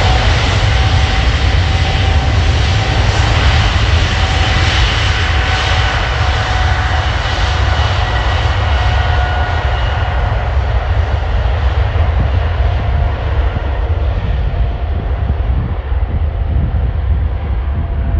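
Boeing 777-200LR's twin GE90 turbofan engines at takeoff thrust: a loud, steady jet roar with a deep rumble and a high whine. Over the last several seconds the sound grows duller and the whine fades as the aircraft moves away.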